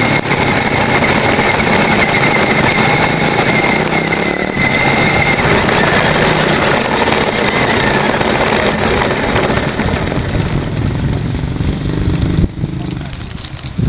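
Onboard sound of a Nikko R/C toy car at speed: its electric motor whining under loud rushing road noise, with a motorcycle engine running close by. The whine fades after about eight seconds and the noise drops suddenly near the end.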